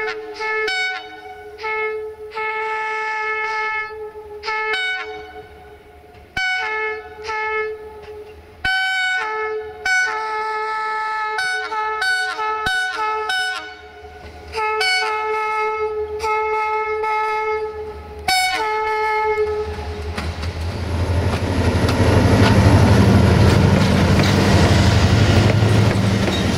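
CFR Class 65 diesel locomotive's multi-note horn sounding a long run of blasts, long and short, whose notes change from blast to blast, over about the first twenty seconds. The locomotive then passes close with its engine running and the wheels of its coaches rolling by, the loudest part.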